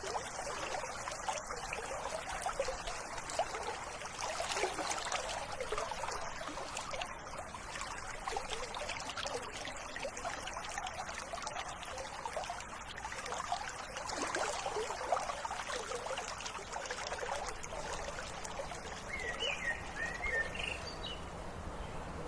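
River water flowing steadily with a constant babbling rush. Near the end a bird chirps briefly a few times.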